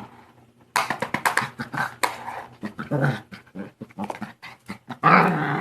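A pet dog growling and whining in rough play, in short irregular bursts mixed with scuffling, with a louder, longer growl near the end.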